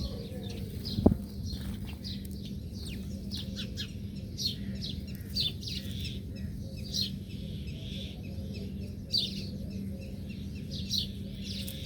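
Birds chirping: many short, high chirps follow one another throughout, over a steady low hum. A single sharp knock about a second in is the loudest sound.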